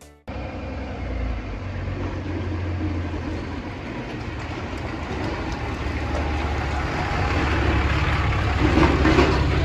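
A vehicle engine running steadily as it moves, with a rattling clatter that grows louder toward the end.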